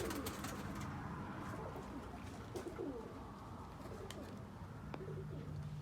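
Domestic pigeons cooing, long low coos with a few faint clicks.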